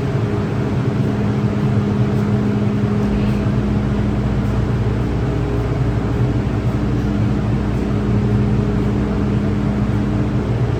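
MTR M-Train electric multiple unit running, heard from on board: a steady rumble with several steady humming tones. A deeper low rumble joins about three seconds in.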